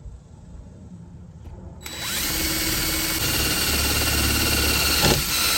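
Power drill running steadily for about four seconds from about two seconds in, driving a fastener into wooden van framing, then stopping abruptly.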